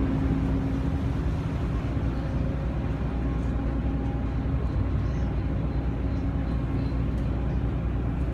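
A car ferry's engines droning steadily aboard ship: a constant low hum with a steady tone in it, unchanging throughout.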